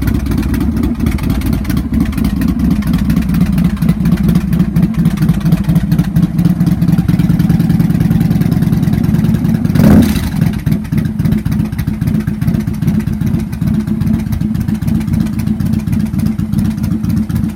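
Victory Hammer 8-Ball's V-twin engine with a lumpy cam, idling after a cold start with an uneven, choppy beat. About ten seconds in there is one brief louder burst, then it settles back into the uneven idle.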